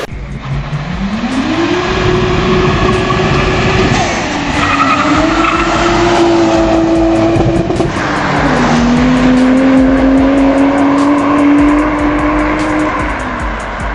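Car engine accelerating hard through the gears: the pitch climbs and holds, then drops at upshifts about four and eight seconds in, rises slowly in the next gear and falls away near the end.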